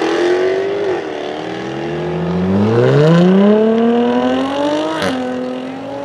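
Two Jaguar F-Type sports cars accelerate hard away one after the other, their engines revving up through the gears. The pitch climbs and falls back at a shift about a second in. A second car then climbs from low revs, and its upshift about five seconds in gives a sharp crack.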